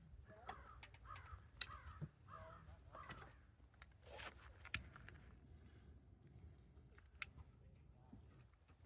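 A crow cawing, a series of about six short calls over the first half, then quiet. Two sharp clicks stand out in the second half.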